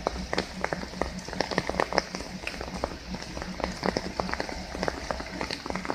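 Many light, irregular ticks and taps, several a second, over a steady low hum.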